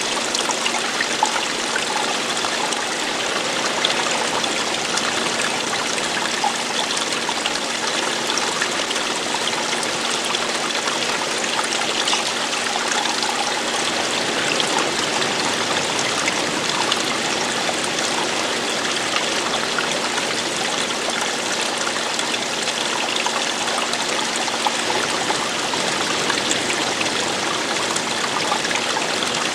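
Running water falling and splashing: a steady, even rush with no breaks.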